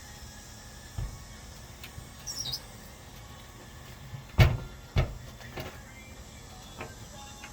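A few hard knocks and clunks, the loudest about four and a half seconds in and a second one just after, with a short high squeak near the middle, typical of handling and fitting a unit into a cabinet opening.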